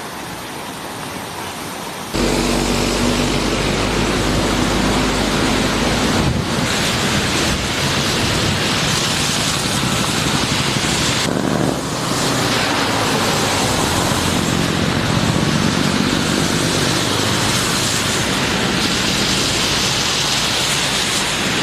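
Traffic on a flooded road: a steady rush of water and tyres, with a vehicle engine running low. The sound jumps louder about two seconds in.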